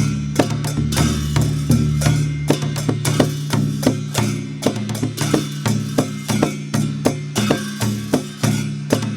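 Dhime, the Newar double-headed barrel drum, played in a fast, steady rhythm of several strokes a second over a held low ringing tone.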